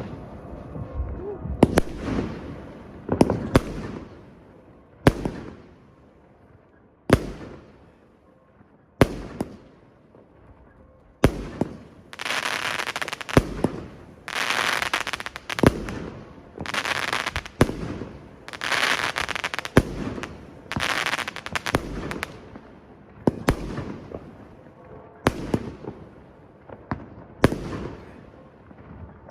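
Fireworks going off: sharp bangs of bursting shells about every two seconds, with a run of longer noisy bursts of about a second each around the middle.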